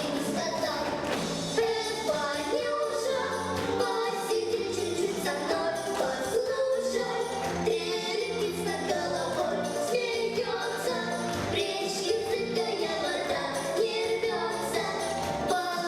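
Singing over a backing track with a steady beat, the voices of a children's vocal studio.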